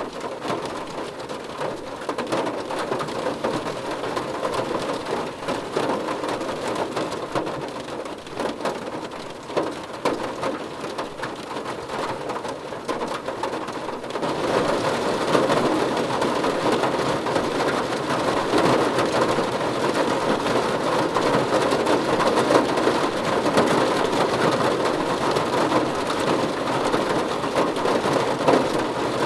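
Steady rain pattering on a surface, with many separate drops audible. About halfway through, it becomes louder and heavier.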